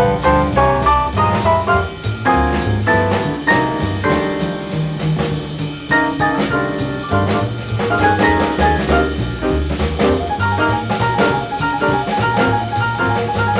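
Live bebop jazz sextet playing: quick runs of notes over bass and drums, with piano and horns. From about eight seconds in, a short figure of two notes repeats over and over.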